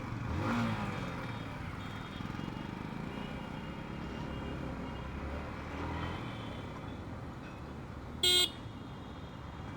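Road traffic noise heard while riding, a steady rumble of engines and tyres, with one short vehicle horn blast about eight seconds in.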